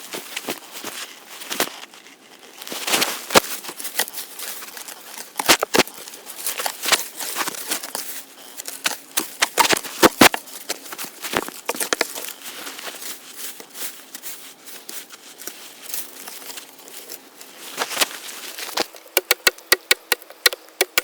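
Rustling, crinkling and sharp snapping of leaves and sticks being handled. The snaps come at irregular intervals, with a quick run of clicks near the end.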